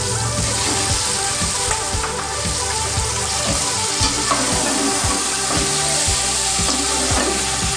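Raw chicken pieces sizzling and spitting in hot oil in a metal pot as they are stirred with a metal spatula, over background music with a steady beat.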